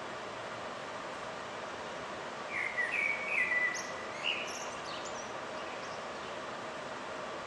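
A bird sings one short phrase of chirping notes, about two and a half seconds in, over steady city background noise.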